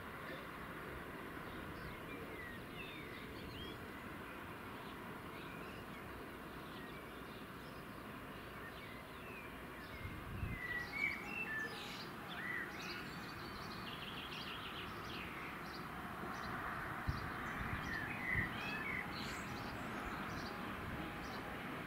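Birds chirping and twittering in short calls, with one quick trill, over a steady outdoor hiss; a few brief low thumps come about halfway through and again near the end.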